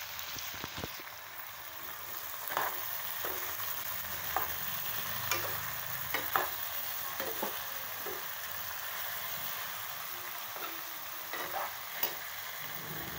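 Diced tinda (round gourd) frying in oil in a kadhai, giving a steady sizzling hiss. A spatula clicks and scrapes against the pan now and then as the pieces are stirred.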